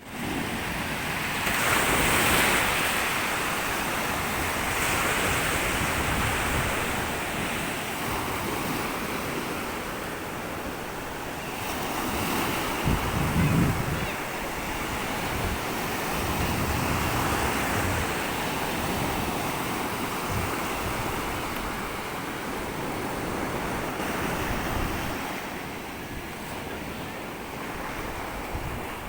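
Sea waves washing onto a sandy beach, rising and falling in slow surges, with wind buffeting the microphone and a brief low rumble of it about halfway through.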